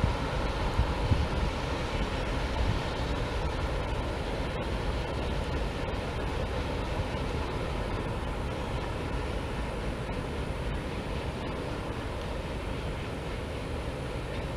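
A freight train rolling past with a steady rumble that eases slightly toward the end.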